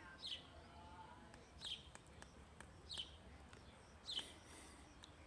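A bird calling over and over outdoors: a short, high chirp that falls in pitch, repeated about every second and a half, over faint background noise.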